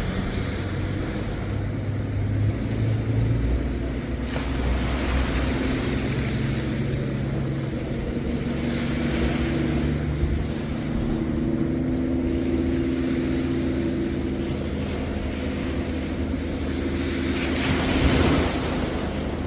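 Waves washing onto the beach, swelling and fading every few seconds, loudest near the end, over the low steady drone of an engine whose pitch shifts slightly.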